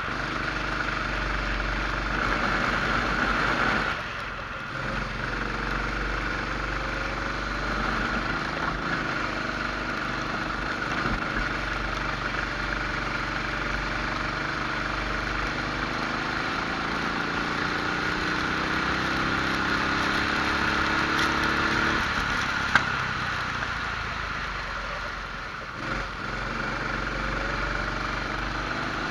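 Rental kart engine at racing speed, revving up steadily through the gears-free rise of a straight and dropping off twice, about four seconds in and near the end, as the throttle is lifted for corners.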